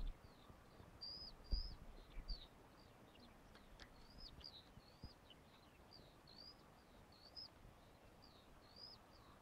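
Faint birdsong: a songbird repeating short high chirps, each rising and falling, about twice a second. A couple of low thumps come about a second and a half in.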